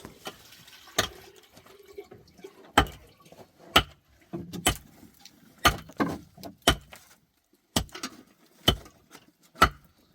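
A series of about ten sharp, heavy blows, roughly one a second, each dying away quickly: a hand tool striking repeatedly, as in chopping or hammering.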